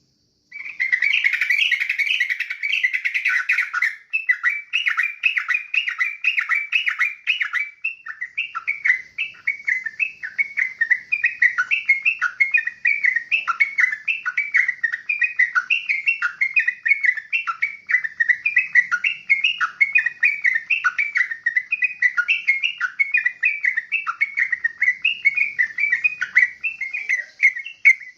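Yellow-vented bulbul (crucuk) singing a long, unbroken string of quick, repeated chirping notes, starting about half a second in.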